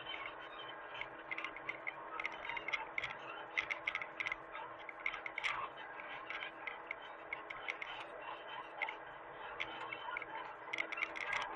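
Hitachi mini excavator running with a steady hum, overlaid by frequent irregular sharp clicks and ticks.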